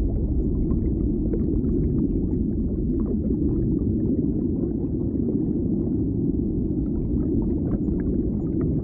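Underwater ambience: a steady low rumble with faint scattered crackles.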